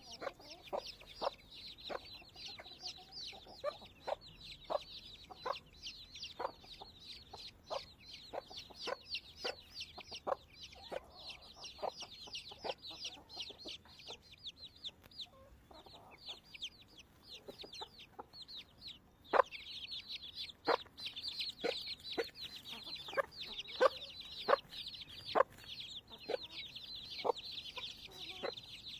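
A mother hen clucking in a steady series of low clucks, about one every second or less, with a brood of chicks peeping continuously and densely. The clucks thin out around the middle and come back louder a few seconds later.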